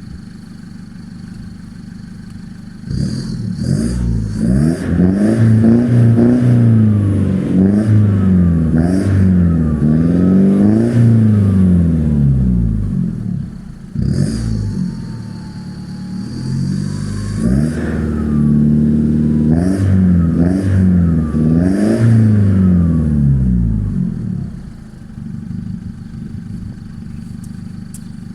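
Opel Astra J 1.7 CDTI four-cylinder turbodiesel with a straight-through exhaust (catalyst, DPF and rear silencer removed). It idles, is revved up and down again and again for about twenty seconds with a short break in the middle, then settles back to idle near the end.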